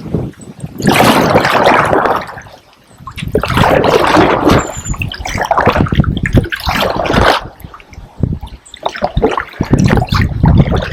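Kayak paddle strokes splashing and dripping water, swelling and fading in about four surges a couple of seconds apart.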